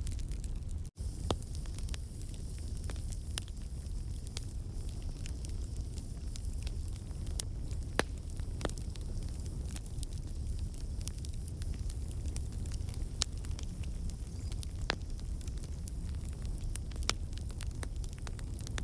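Wood campfire burning: a steady low rumble of flames with scattered sharp crackles and pops from the burning logs. The sound cuts out for an instant about a second in.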